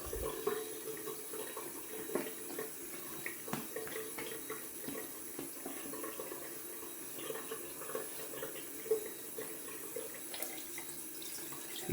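Tap water running steadily into a sink, with scattered small clicks and splashes.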